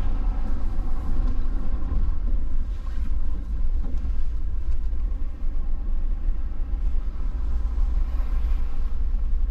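Plow truck heard from inside the cab while driving: a steady, deep engine and road rumble.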